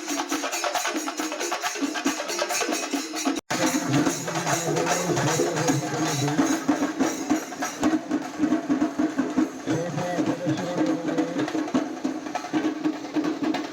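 A Kerala temple-festival percussion ensemble of drums and cymbals plays a fast, dense rhythm with a steady droning tone underneath. The sound breaks off for an instant about three and a half seconds in.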